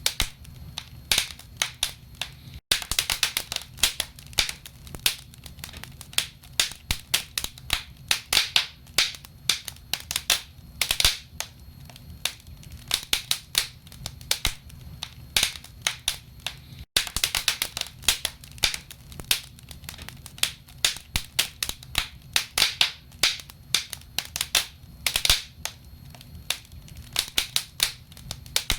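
Wood fire burning in a fireplace, crackling with dense, irregular pops and snaps from the burning logs over a low steady rumble of the flames. The sound cuts out for an instant twice, about 2.6 s and 17 s in.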